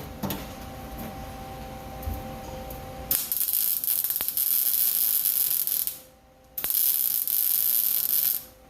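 Welding arc crackling as a steel floor pan is welded in: two runs of about three and two seconds with a short pause between, starting about three seconds in.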